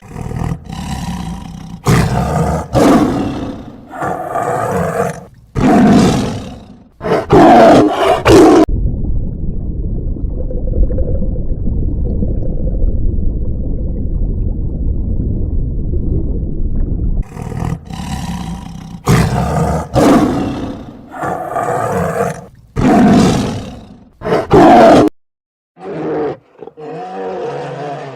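A large animal roaring again and again in loud separate roars, then a long low rumbling growl, then more roars, ending in a few shorter, higher calls.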